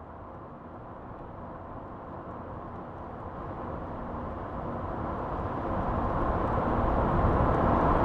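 Vehicle engine sound effect: a steady drone that holds one pitch and swells steadily louder from faint, like a vehicle approaching.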